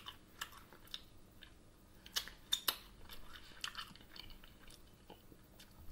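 Close-miked chewing of an air-fried chicken wing, with scattered wet clicks and smacks. The loudest are a few sharp ones between two and three seconds in.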